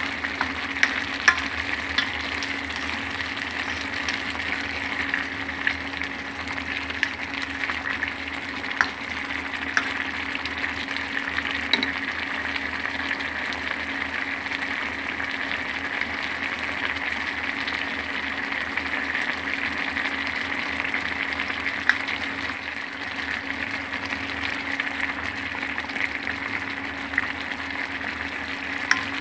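Food frying and sizzling in a pan, a steady hiss with scattered pops and crackles, over a low steady hum.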